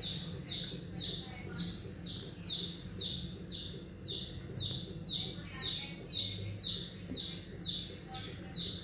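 A bird's high chirp, repeated steadily about twice a second, each call falling in pitch.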